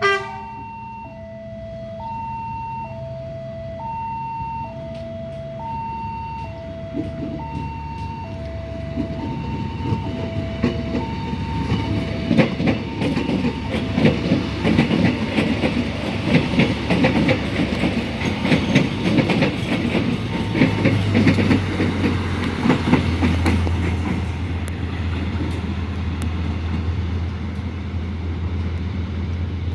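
Level-crossing warning alarm sounding in two alternating tones, fading out over the first dozen seconds, as a train passes over the crossing with a dense clatter of wheels over rail joints, loudest in the middle. A steady low engine hum comes in about two-thirds of the way through.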